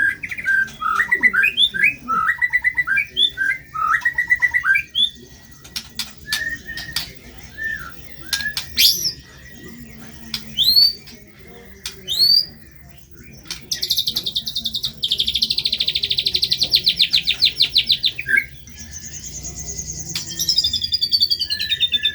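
White-rumped shama (murai batu) singing a varied song. It opens with quick whistled phrases, then gives sharp clicks and rising whistles. About fourteen seconds in, a rapid buzzing trill runs for roughly four seconds, followed by falling, chattering runs of notes.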